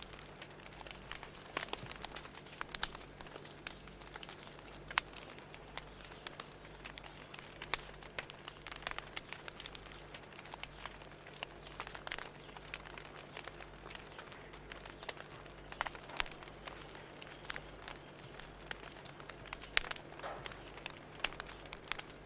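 Fire crackling: irregular sharp pops and snaps of varying loudness over a soft steady hiss.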